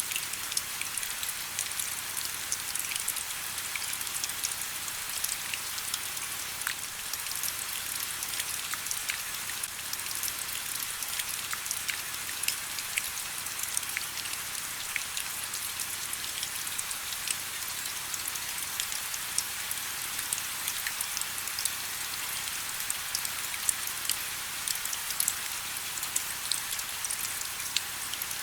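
Steady rain falling, a constant hiss with many individual drops ticking sharply at irregular moments.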